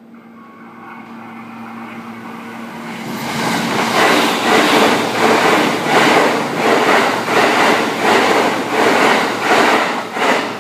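Shirasagi limited express electric train passing at speed. Its noise builds over the first few seconds, then becomes a regular clatter of wheels on the rails, about two beats a second, which fades as the last car goes by near the end.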